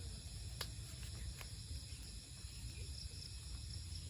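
Steady chorus of insects, a high even buzz in several thin bands, over a low rumble. A sharp click about half a second in and a fainter one a second later.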